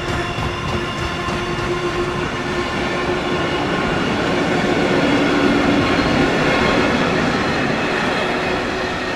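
A train running past on the tracks: a continuous rumble of wheels on rail with a steady humming tone, growing louder about five seconds in and easing slightly near the end.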